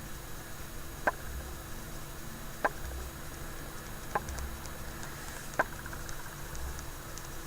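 Glitter being sprinkled onto glue-coated craft birds by tapping its container: four sharp taps, about one every second and a half, each with a soft low thud just after.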